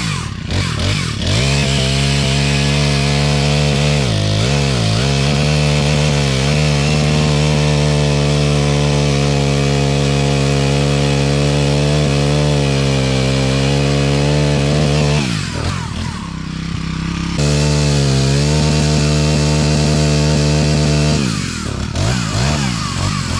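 Small 18-inch four-stroke chainsaw running at high revs while cutting wood, its engine note sagging briefly under load about four seconds in. It drops back toward idle about fifteen seconds in, revs up again a couple of seconds later, and drops again near the end.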